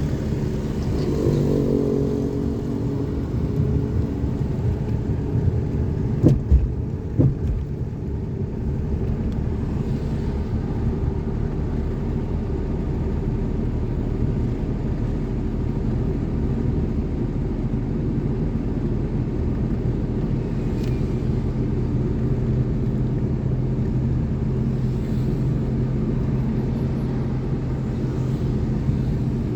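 Steady low vehicle rumble with a constant hum, and two sharp knocks about six and seven seconds in.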